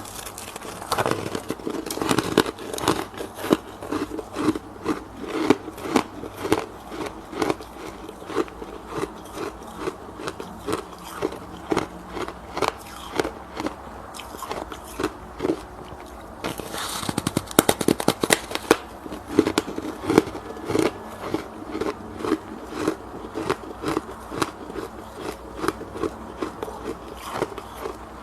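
Freezer frost being bitten and chewed close to the microphone: a steady run of crisp crunches, about two or three a second, with a louder, denser crackling burst of a fresh bite a little past halfway.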